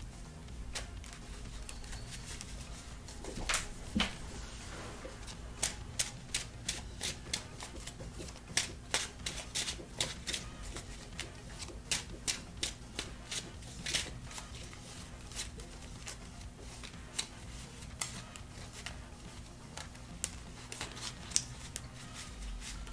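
Trading cards being shuffled and handled after a deck search: a long run of irregular light clicks, several a second, over a faint steady low hum.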